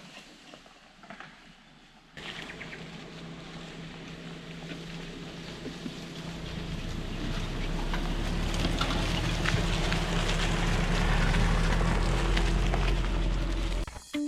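A Suzuki Jimny 4WD driving, its engine running steadily. The sound comes in suddenly about two seconds in after faint background, and a low rumble grows louder through the second half.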